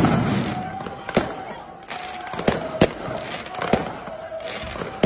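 Fireworks and firecrackers going off in the street: about half a dozen sharp bangs at irregular intervals, the loudest right at the start, over a continuous crackle and hiss.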